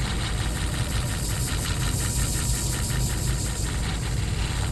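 Hamagari flat-plate shear sharpening machine running with a steady hum while a shear blade is ground on its spinning sandpaper plate, making a hissing grind with a fast, even pulse. The grinding stops right at the end as the blade comes off the plate.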